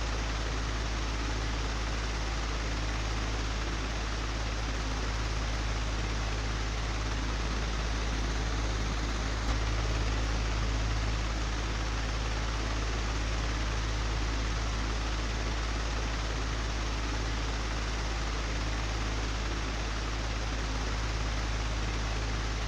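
Old electric fan running steadily: an even rush of air over a low motor hum, with one brief knock a little under ten seconds in.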